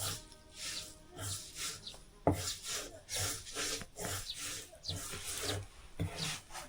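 Rhythmic scraping strokes, a few a second, with a sharp knock about two seconds in.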